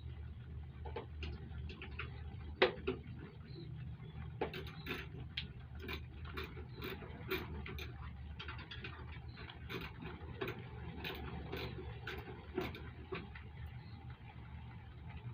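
Irregular metallic clicks and ticks of a hand tool, likely a ratchet, turning stiff bolts into a motorcycle sissy bar; the bolts are going in hard. A steady low hum runs underneath.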